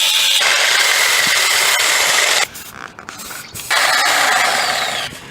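A power tool cutting into the steel exhaust pipe to remove the muffler, in two long, steady runs of scraping, hissing noise, the first stopping about two and a half seconds in and the second starting again about a second later.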